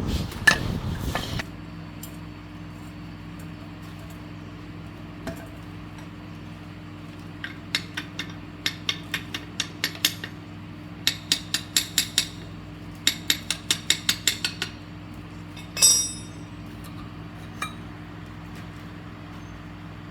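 Light metallic clinks and taps in quick runs, like small metal parts or tools being handled, over a steady low hum; a louder clatter comes near the end.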